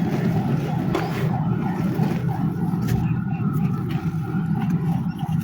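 Dry black clay crumbling and crunching continuously, with a few sharper cracks.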